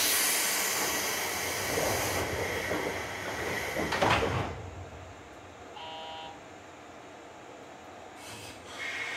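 JR West Series 201 commuter train at a station departure: a sudden loud hiss of compressed air as the doors close, fading over a couple of seconds, then a second sharp air burst about four seconds in. A short electronic beep follows around six seconds, and a steady whine sets in near the end as the train starts to draw away.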